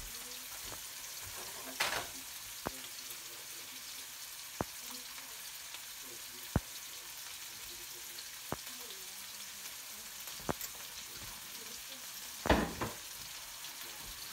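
Shrimp, garlic and onion sizzling in a wok: a steady frying hiss with a sharp pop every second or two. Two brief louder noises come about two seconds in and near the end.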